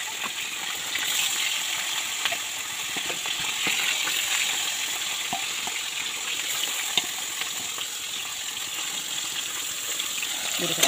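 Fish frying in hot oil: a steady sizzle, with occasional light clicks of a metal slotted spoon against a steel bowl.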